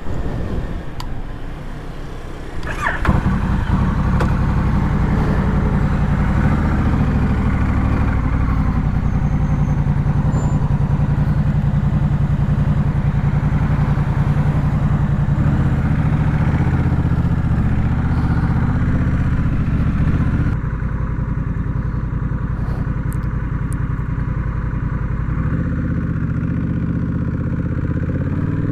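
Honda Rebel 1100's parallel-twin engine is started about three seconds in, then idles steadily with an even, low throb. About two-thirds of the way through, the sound turns duller and a little quieter.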